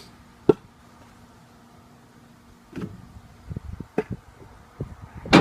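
Split firewood pieces knocking and clunking as they are handled and stacked: one sharp knock about half a second in, a run of knocks from about three seconds in, and a loud clunk near the end, over a faint steady hum.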